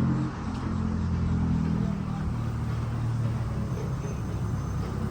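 BMW E34 car engine running while driving, freshly warmed up, its note dropping and rising a few times as the revs change.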